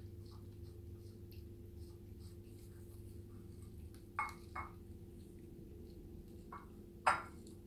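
A cat eating, with faint small wet chewing and licking clicks over a steady low hum. There are three louder short sounds, two close together about four seconds in and one near the end.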